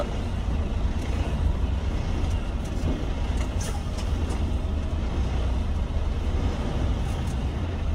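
Semi truck's diesel engine running steadily at low revs: a continuous low rumble while the rig is manoeuvred slowly during backing practice.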